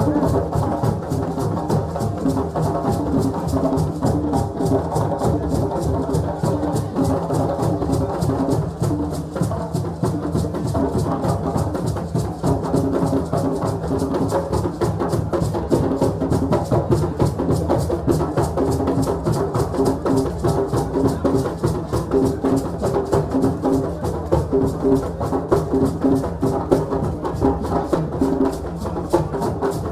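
West African celebration drumming: several drums played together in a fast, steady rhythm, with sustained pitched tones underneath.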